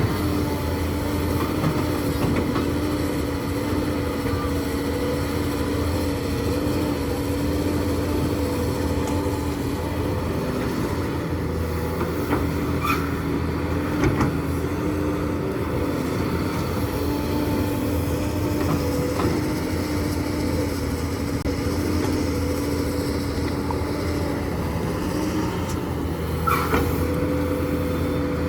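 Diesel engine of a hydraulic excavator running steadily, with a few short knocks and clanks.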